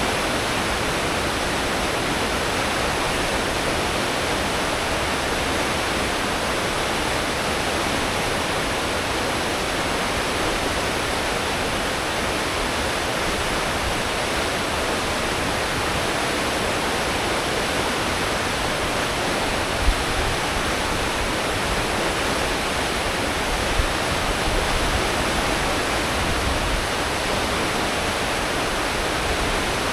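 Steady rushing noise of a cruise ship's wake churning behind the stern at full speed, with the ship's engines running underneath. A couple of brief low thumps about two-thirds of the way in.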